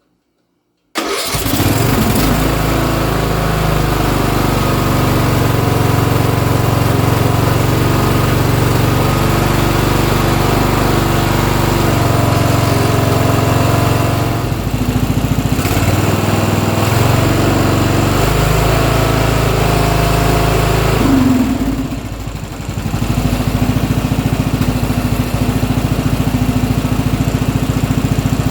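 Briggs & Stratton Intek lawn-tractor engine running on choke right after starting on a newly fitted replacement carburetor. It comes in suddenly about a second in, its speed wavers and dips briefly twice, then settles to a steady run.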